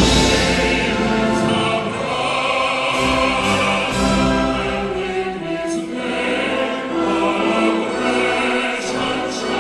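Choir singing in several parts, holding chords that change every second or so.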